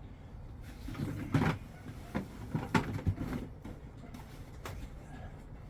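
A few scattered knocks and bumps of things being handled and moved, over a low steady background hum.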